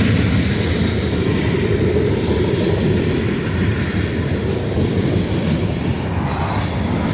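Freight train rolling past: a steady, loud rumble of railcars on the rails.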